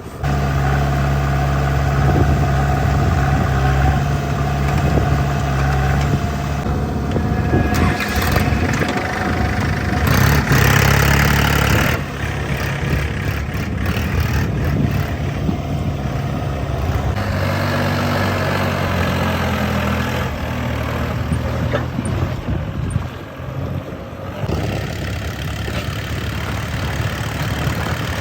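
Diesel engines of earthmoving and tractor machinery running under changing load, with abrupt shifts in pitch and level several times. A louder, noisier stretch comes about ten to twelve seconds in.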